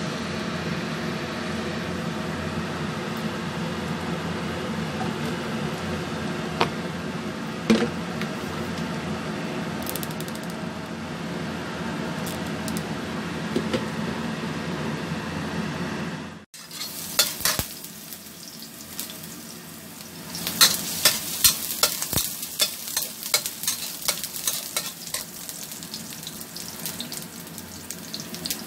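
Minced garlic sizzling in hot oil in a wok, with a metal spatula scraping and tapping the pan in quick clicks, busiest in the last third. Before that, a steady hum that cuts off suddenly a little past halfway.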